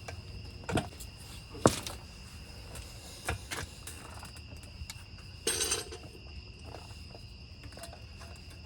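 A handful of sharp clicks and knocks from tools and brake parts being handled, with a brief rattling scrape a little past halfway, over a steady high insect trill.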